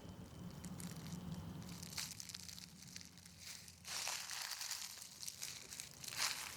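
Footsteps of a person walking on a trail, with a few sharper steps about two-thirds of the way in and near the end.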